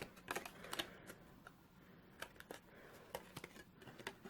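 Faint, irregular light taps and clicks of card stock being folded and handled against a tabletop.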